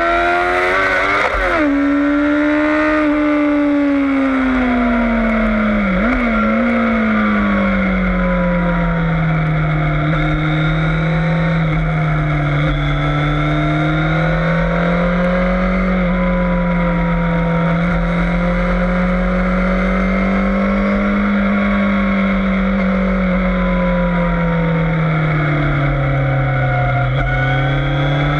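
Yamaha FZS600 Fazer's inline-four engine running hard on track, its pitch falling and rising in long sweeps through corners and gear changes, with a quick dip and blip about six seconds in. A short rush of noise comes in the first second or two.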